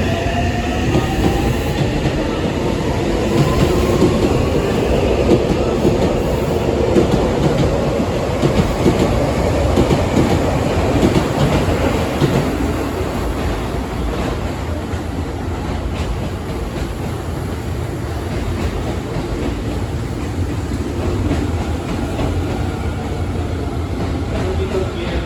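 Seibu 6000 series refurbished train with a Mitsubishi SiC-VVVF inverter accelerating. A thin inverter whine rises in pitch over the first few seconds and fades under steady wheel-on-rail running noise and clickety-clack.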